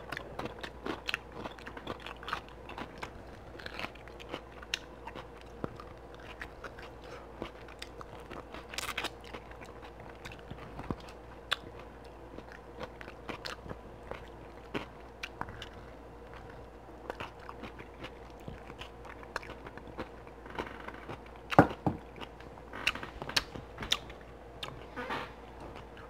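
A person chewing and biting sauce-glazed beef ribs close to the microphone: a steady run of wet smacks and clicks, with louder bites near the end. A faint steady hum lies underneath.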